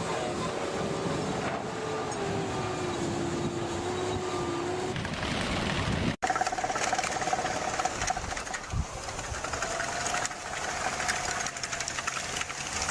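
Engine of a vehicle or heavy machine running, its pitch drifting slowly. It breaks off suddenly about six seconds in, and another engine sound follows.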